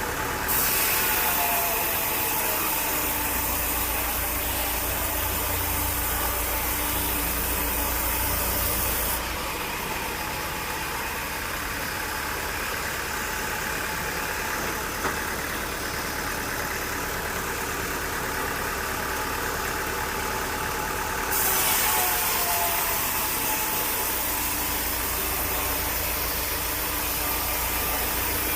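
Sawmill machinery running steadily with an engine sound. A harsher, hissier layer cuts in sharply near the start, drops out about a third of the way through, and returns for the last quarter.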